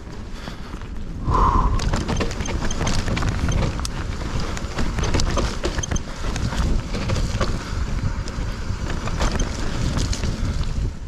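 Hardtail mountain bike riding fast over a dirt trail: wind buffeting the microphone and a constant rumble of tyres on rough ground, with frequent clicks and rattles from the bike. A short squeal about one and a half seconds in.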